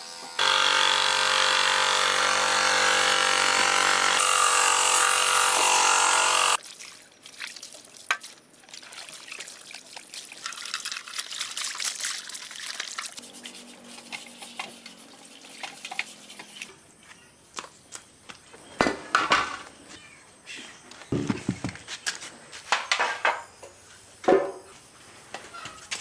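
A motor-driven machine runs steadily for about six seconds and cuts off suddenly, followed by scattered clicks, knocks and scraping of parts being handled.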